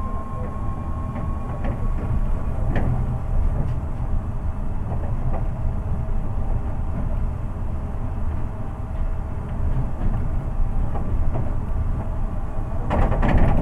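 Seibu 8500-series rubber-tyred people-mover train with Hitachi IGBT-VVVF control, running: a steady low rumble with a thin steady motor tone and scattered clicks. A louder burst of rattling noise comes near the end.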